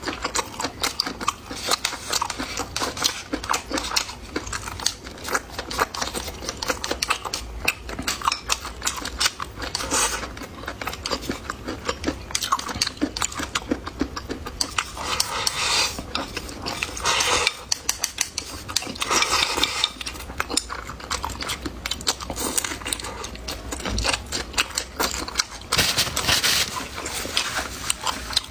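Close-miked eating sounds: a person chewing and crunching food in dense, irregular clicks, with a few louder noisy bursts spread through.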